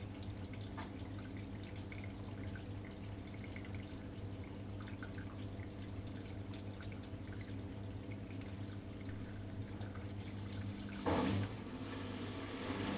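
ATLANT washing machine filling with water: water trickling and running into the machine over a steady hum, with one short loud clunk about eleven seconds in.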